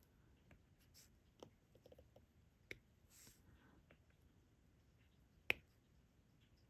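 Faint, sparse clicks and taps of a diamond-painting pen picking up drills and pressing them onto the canvas, the sharpest about five and a half seconds in.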